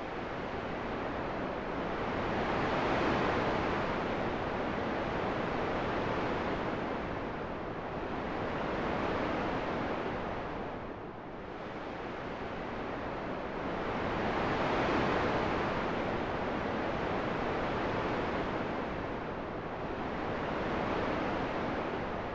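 Rushing wind noise that swells and eases in slow, even waves, peaking about every six seconds.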